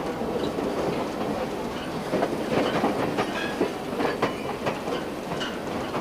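Railroad cars rolling along jointed track: a steady rumble with irregular clacks and knocks of the wheels over rail joints.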